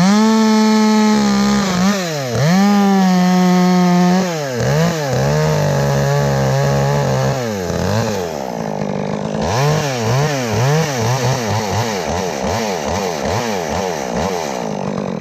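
Two-stroke chainsaw revved to full throttle and held at high revs for a few seconds with brief dips, then settling lower before being revved up and down over and over until it stops at the end.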